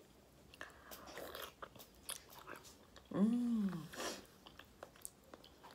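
Close-up chewing and mouth sounds of a person eating, with scattered small clicks and smacks, and a short hum about three seconds in.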